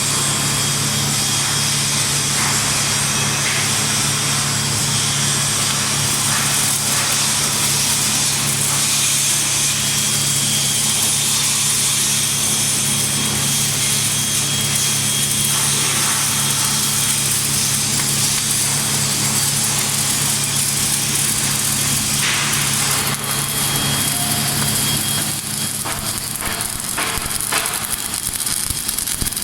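Electric arc welding: a loud, steady hiss with a low hum underneath. Near the end the hum drops away and the hiss turns patchy and broken.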